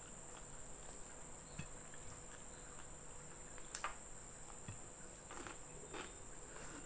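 Faint chewing and mouth sounds of someone eating fried chicken and rice by hand, with a few soft clicks and smacks, over a steady high-pitched whine.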